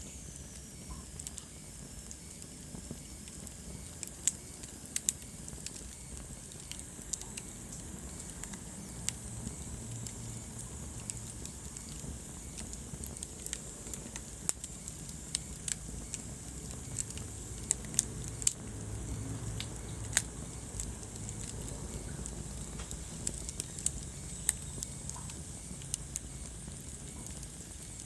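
Wood fire crackling: irregular sharp snaps and pops, several a second at times, over a low steady rumble of the burning logs.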